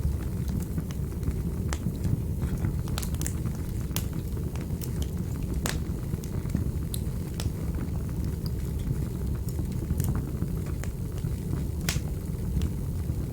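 Fire burning in a fireplace: a steady low rumble of the flames with irregular sharp crackles and pops, a few of them louder than the rest.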